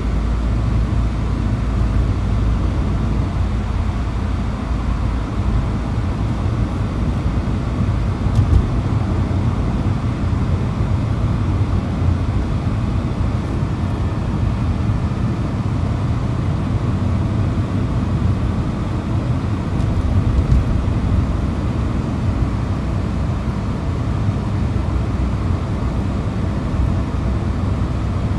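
Steady low rumble of a moving road vehicle, with a few faint knocks.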